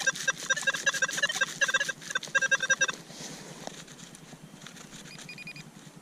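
Rapid electronic beeping from metal-detecting gear, about six beeps a second, that stops about three seconds in. It is followed by a few short, higher target beeps near the end.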